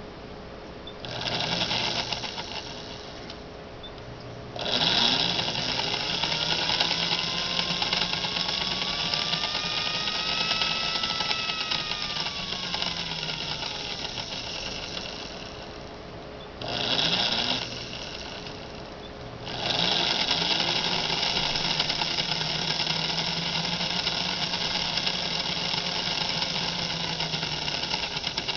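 Motor truck of a Lionel 2332 GG1 model locomotive running, an electric motor whirring with buzzing gears. It starts and stops several times, with short bursts and two long runs, and speeds up and then slows partway through the first long run.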